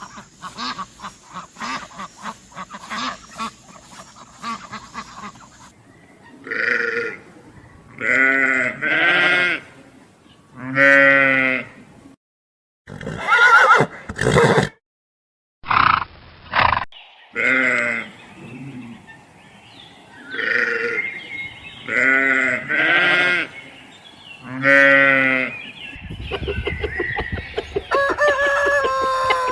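Farm livestock bleating: a string of short, wavering calls about a second each, cut abruptly between clips. They are preceded by a few seconds of rapid clicking.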